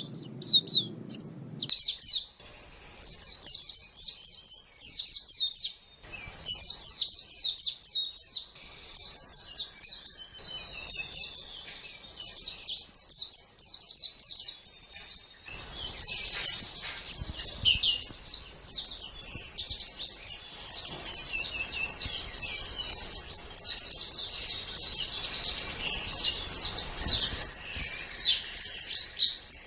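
Pleci (white-eye) singing a long, rapid, high-pitched chattering song of quick sweeping notes, with brief pauses about two and six seconds in.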